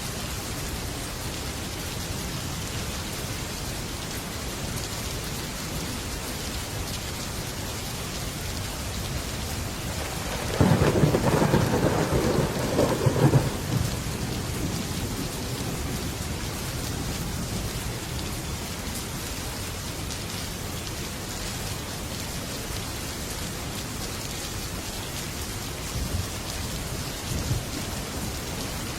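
Heavy rain falling steadily on a metal roof, with a clap of thunder about ten seconds in that rumbles on for about three seconds. Two smaller knocks come near the end.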